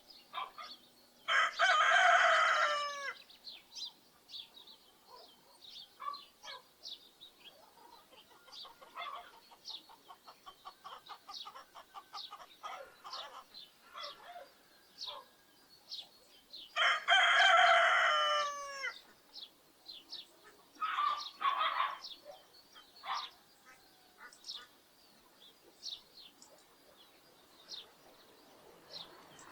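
A rooster crows twice, once near the start and again about halfway through, each crow lasting about two seconds and dropping in pitch at the end. Between the crows come softer clucking and the short chirps of small birds.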